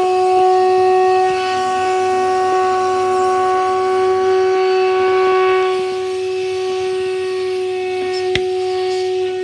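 Vacuum cleaner motor running with a steady, unwavering pitched drone, with one sharp click about eight seconds in.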